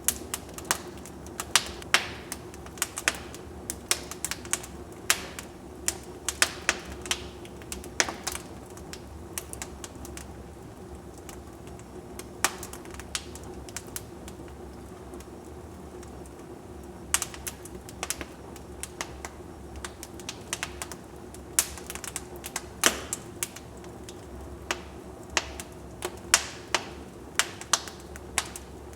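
Wood fire in a fireplace crackling: irregular sharp pops and snaps, sometimes in quick clusters and sparser through the middle, over a steady low background.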